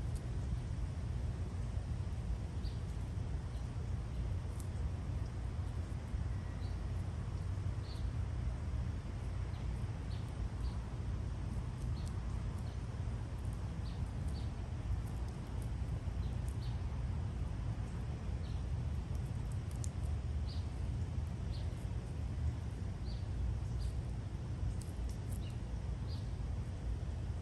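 Short, high bird chirps repeating at irregular intervals over a steady low rumble.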